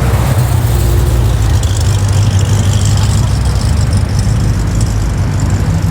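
Car engines running close by in street traffic, a loud, steady low rumble.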